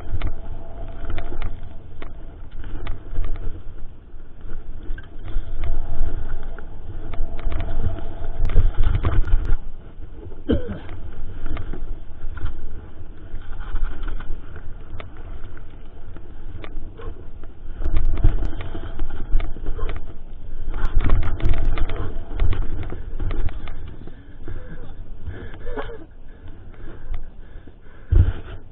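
Mountain bike ridden over a rough trail, heard from a GoPro on the ride: a constant rumble of wind and tyres on dirt, with the bike clattering and rattling over bumps, in heavier rough stretches about a third of the way in and again past the middle.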